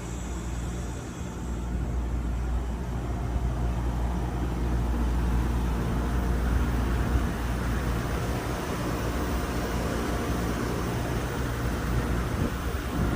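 Hitachi air conditioner outdoor unit running: a steady low hum with a rushing fan noise that grows louder after about a second and a half.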